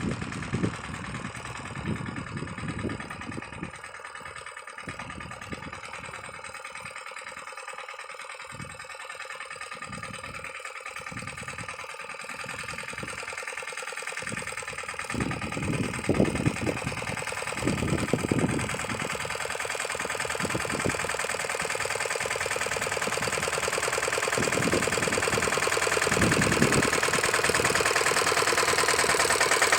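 Lombardini diesel engine of a walk-behind tractor running, its low exhaust beat uneven, growing steadily louder over the second half.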